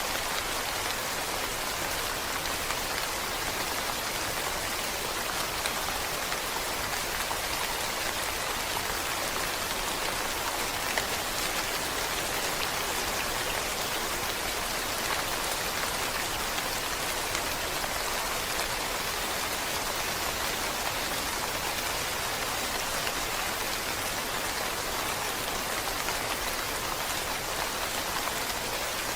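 Steady rain falling, an even hiss of many drops pattering on a surface, with no thunder or other sounds.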